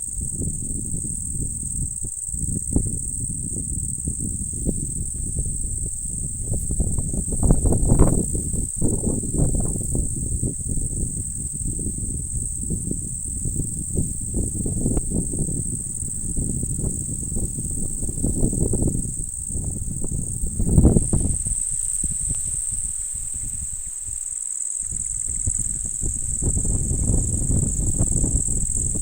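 Strong wind buffeting the microphone: a low rumble that rises and falls in gusts, strongest about eight seconds in and again about twenty-one seconds in. Under it runs a steady high-pitched insect drone.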